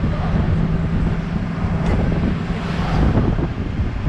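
Longtail boat engine running with a steady low drone, wind buffeting the microphone.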